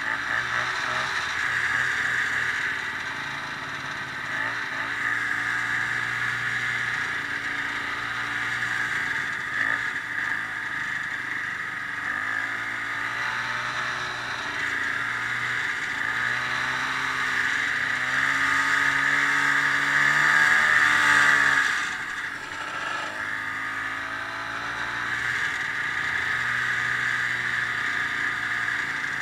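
Snowmobile engine running under way, its pitch rising and falling as the throttle changes. It builds to its loudest about two-thirds of the way through, then drops off sharply as the throttle is let off, and picks up again.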